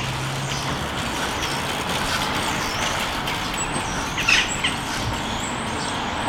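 Steady road-traffic noise, with a brief chirp about four seconds in.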